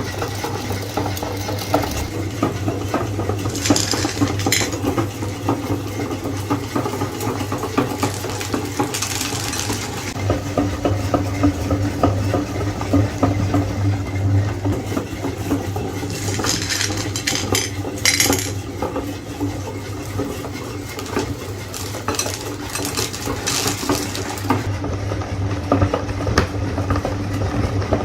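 Meat grinder running steadily with a constant low hum, while hard pieces clink, rattle and scrape against its metal parts.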